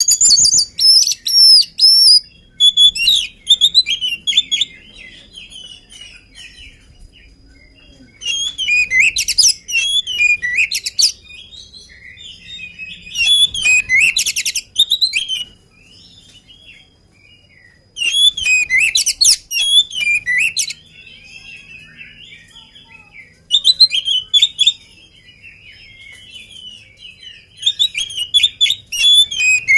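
Oriental magpie-robin singing energetically: loud bursts of rapid, varied whistled notes every four to five seconds, with quieter twittering in between.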